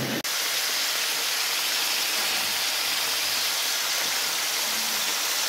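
Chicken pieces sizzling in hot oil in an enamelled casserole as they sauté: a steady, even hiss, which cuts out for an instant about a quarter second in.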